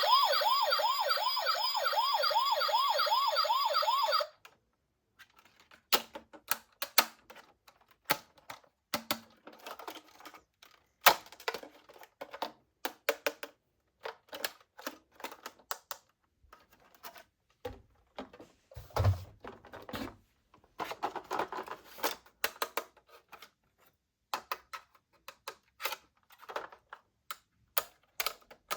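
Toy police car's electronic siren wailing in a fast warble, about three to four rises a second, cutting off suddenly about four seconds in. After that, scattered light clicks and taps of small plastic toy cars being handled, with one low thump near the middle.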